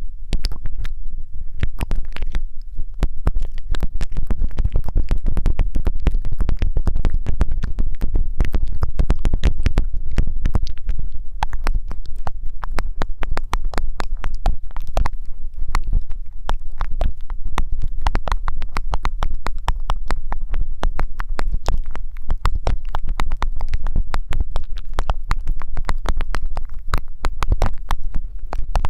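Dense, fast, irregular crackling and rubbing right against the microphone, with a deep rumble beneath, as from hands or a tool working on a close-miked ASMR microphone.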